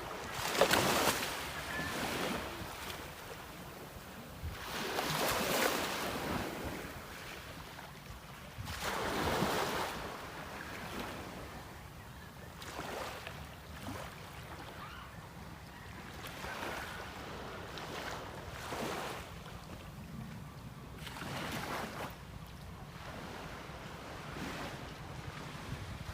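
Sea waves washing in, a rush of surf swelling up every few seconds, loudest about a second in, over wind buffeting the microphone.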